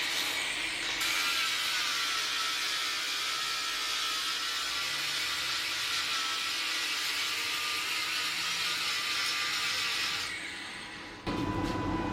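Cordless angle grinder grinding steel, running steadily with a hiss and a faint whine, then winding down about ten seconds in.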